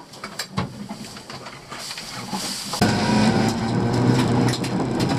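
Inside the cabin of a rally Honda Civic with a 1.3-litre twin-carburettor engine: quiet at first with scattered clicks and knocks, then about three seconds in the engine comes in loudly and runs steadily under throttle.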